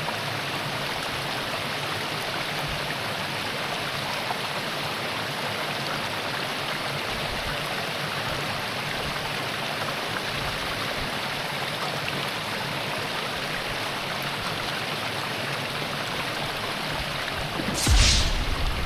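Mountain creek rushing steadily over rocks. Near the end there is a brief, louder thump and rush.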